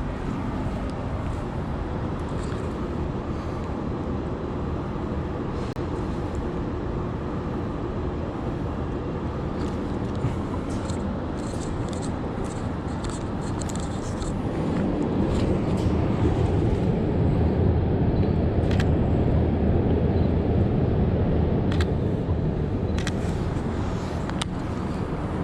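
City street ambience with steady traffic noise; about halfway through a vehicle passes close, the low rumble growing louder for several seconds before easing off. A few sharp clicks are heard near the end.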